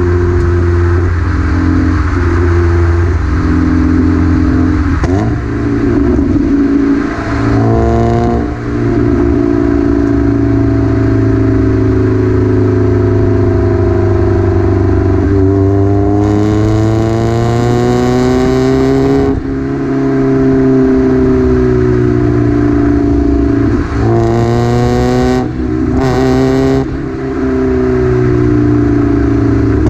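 Mazda MX-5 NA's four-cylinder engine running through a small BBK cat-back exhaust with only a rear muffler, a raspy note. It pulls up through the revs twice, about halfway through and again near the end, with brief drops in pitch in between.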